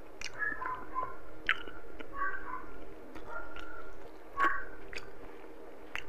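Close-miked chewing of tender braised pork and rice, with wet mouth and lip sounds and a few sharp smacking clicks, one about four and a half seconds in.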